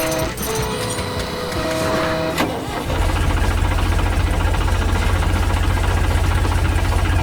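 A heavy machine's engine comes in about three seconds in and runs with a steady low throb, after a couple of seconds of sustained musical tones.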